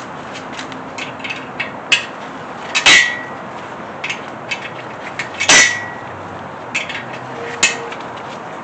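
Metal tools and hardware clicking and clinking, with two louder metallic clanks that ring briefly, about three and five and a half seconds in.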